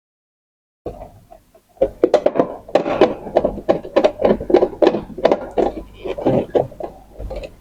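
Plastic parts of an add-on ink tank and its fittings being handled and pushed together: a rapid string of knocks, clicks and clatter starting about a second in.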